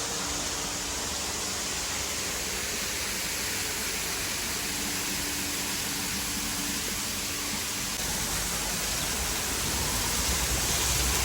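Waterfall: a steady, even rush of falling water that grows slightly louder over the last few seconds.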